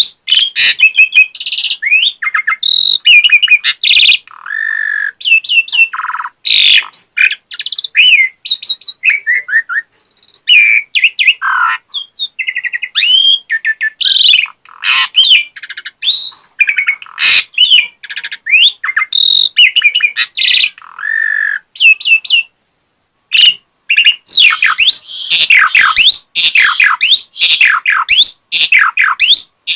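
Asian pied starling (jalak suren) singing a long, loud, varied song of whistles, chirps, gliding notes and harsh calls, full of imitated phrases of other birds. There is a brief pause about two-thirds of the way through.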